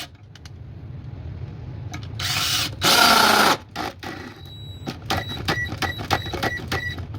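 Handheld cordless power tool run in two short bursts, followed by a run of quick sharp metallic clicks that ring briefly.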